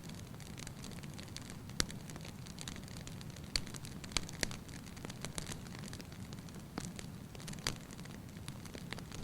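Fire burning in a fireplace: a steady low rush of flame with sharp, irregular crackles and pops, about one every second or two.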